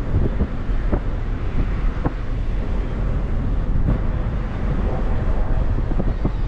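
Wind buffeting the microphone outdoors: a steady rushing noise with a heavy low rumble that swells and dips unevenly.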